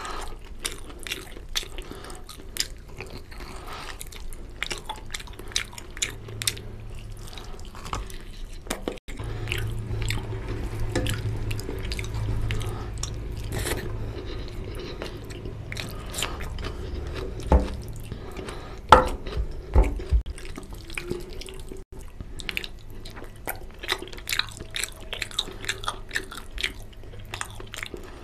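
Close-miked chewing of spicy mutton curry and rice, with wet lip smacks and mouth clicks coming thick and fast, and a few louder knocks near the middle.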